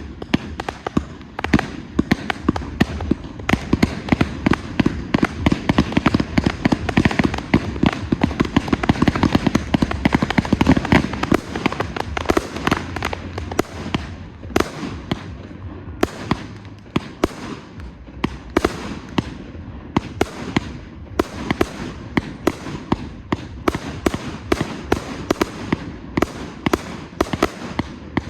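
Fireworks display: a dense, continuous barrage of sharp cracks and bangs from aerial shells, heaviest in the first half.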